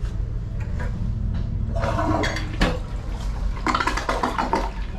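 Shower head turned on and spraying water in two spells, about two seconds in and again near four seconds, over a steady low hum.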